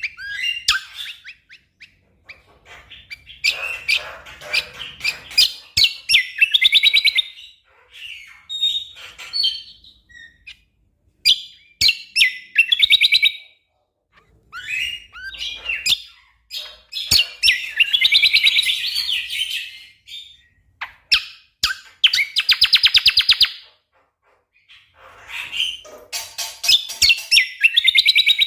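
Cucak kombo (kecial kombok) songbird singing in loud bursts of rapid-fire trills and sharp chattering notes, each burst lasting one to three seconds with short pauses between them.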